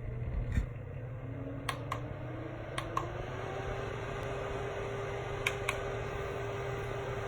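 Small personal air-conditioner desk fan running, its steady whir rising in pitch over the first few seconds as the motor spins up, then holding steady. Several sharp clicks, mostly in pairs, sound over it.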